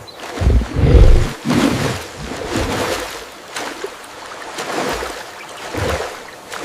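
A large animal growling in a series of low, rough bursts.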